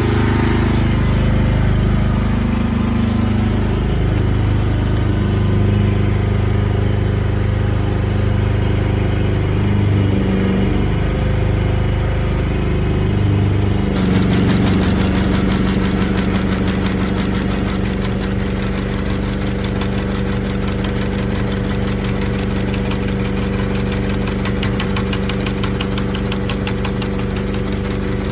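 Rippa NDI315 mini excavator's engine running under hydraulic load, its pitch shifting in the first half. About halfway through the sound changes abruptly to a steady, higher note with a fast even chatter as the sickle bar mower's cutter runs.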